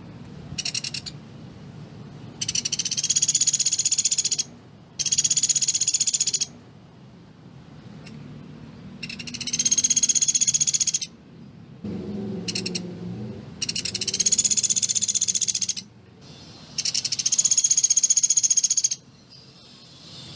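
Pelatuk beras bird calling in fast, dense rattling trills ('tembakan'), high-pitched. It gives about seven trills, most lasting about two seconds, with short pauses between them.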